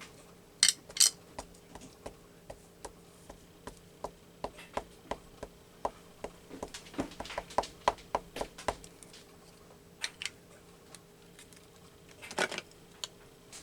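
Two sharp clicks near the start, then a run of light taps at about two to three a second for several seconds, then a few scattered knocks: an archival black ink pad being opened and tapped onto a rubber stamp to ink it.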